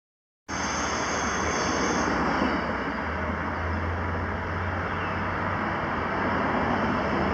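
Diesel locomotive running light under power, a steady loud engine drone with a low hum underneath, starting abruptly about half a second in.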